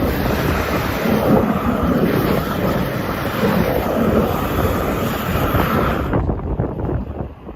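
Strong wind buffeting the microphone, a heavy low rumble under a steady hiss; the hiss cuts off abruptly about six seconds in while the wind rumble carries on.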